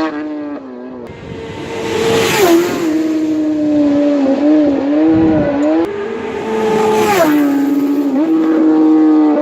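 Racing superbike engines held at high revs as two bikes pass at speed, one about two and a half seconds in and another about five seconds later. Each engine note drops sharply in pitch as the bike goes by.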